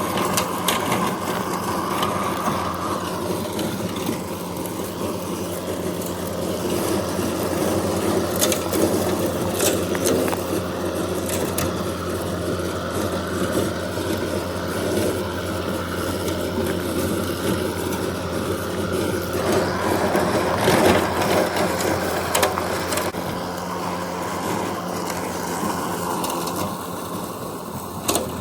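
Mowrator S1 battery-powered remote-controlled mower driving with its blade spinning, cutting grass. A steady hum runs throughout, with scattered sharp clicks, and the pitch shifts about two-thirds of the way through.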